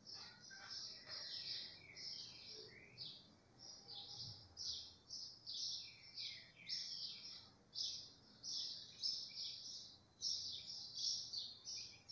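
A bird chirping over and over, about two short chirps a second, some with a falling note.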